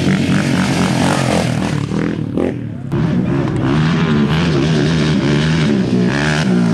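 Off-road race vehicle engines revving and passing, their pitch rising and falling, with a short drop in level about three seconds in.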